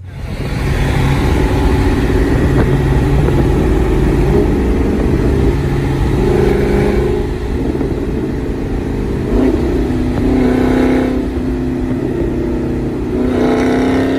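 Dodge muscle car's V8 engine held at high revs under heavy throttle, loud and sustained, its pitch wavering and then climbing again near the end.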